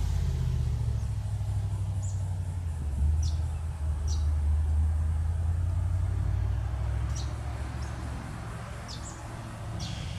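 Diesel locomotive engine running with a steady low rumble that eases off toward the end, while small birds chirp about nine times.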